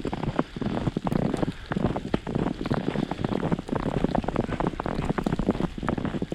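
Snow crackling and crunching: dense, irregular crackles with no steady rhythm.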